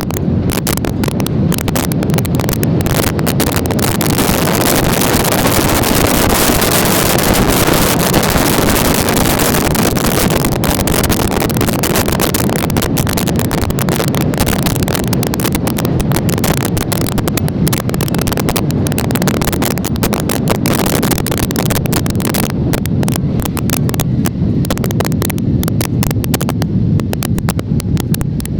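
Wind rushing and buffeting over the microphone of a moving motorcycle, with engine and road noise underneath. It is loud and steady throughout, a little stronger for several seconds early in the stretch.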